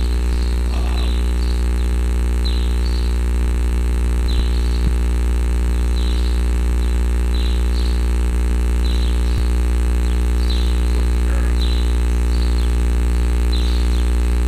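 Steady electrical mains hum with a dense stack of overtones. Faint short, high, falling chirps repeat about every second and a half.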